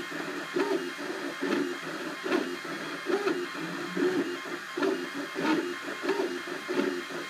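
Cubify 3D printer's stepper motors running as the print head moves: short whining tones that jump in pitch every fraction of a second, with a light tick about once a second.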